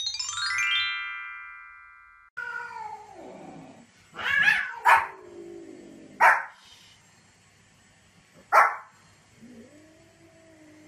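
A bright synthesized chime sound effect, its notes entering one over another and fading over about two seconds. Then a small white Pomeranian-type dog gives about four short, sharp yaps, while cats meow with drawn-out calls before and after the barks.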